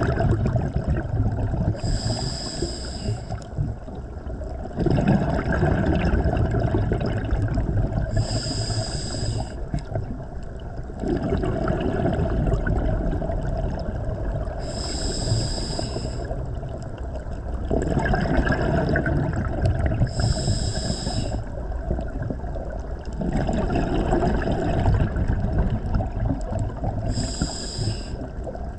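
Scuba diver breathing through a regulator underwater. A short hiss comes about every six seconds, five times, and each is followed by a few seconds of exhaled bubbles rumbling and gurgling past the microphone.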